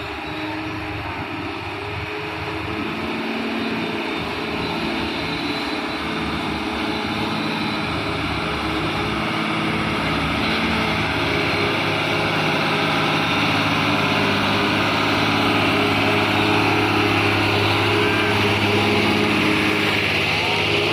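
Heavy cargo truck's diesel engine running steadily under load, growing gradually louder as it comes closer.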